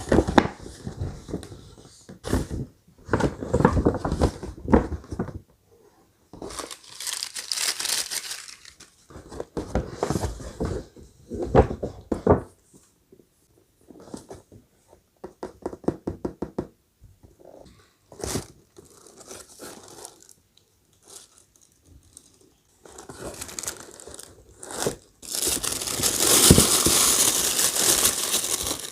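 Shoe packaging being handled and unwrapped: intermittent rustling and knocks, then from about 25 seconds in, continuous crinkling and tearing of paper or plastic wrapping.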